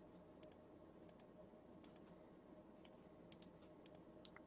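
Faint, irregular computer clicks, about a dozen, as someone steps backwards through a sequence of images, over a low steady hum.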